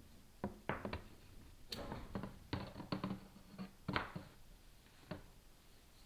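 Irregular taps, clicks and short scrapes of a chimney inspection camera and its cable being lowered down the flue, rubbing and knocking against the flue walls.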